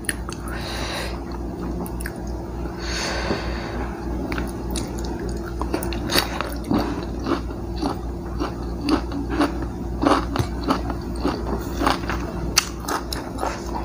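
Close-miked chewing and crunching of fried food, with many sharp crisp crunches that come thicker from a few seconds in.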